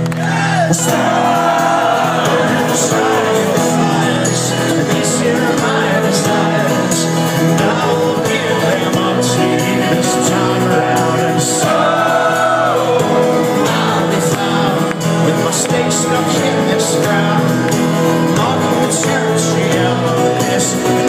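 A live folk-rock band playing loudly, with sustained singing and whoops or shouts from the crowd.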